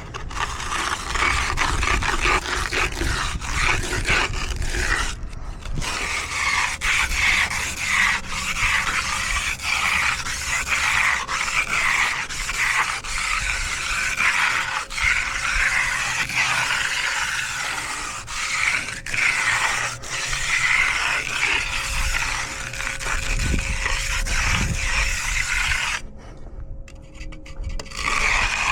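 A hand finishing tool, such as a concrete edger or trowel, scraping and rubbing back and forth over wet concrete in continuous strokes, stopping briefly near the end.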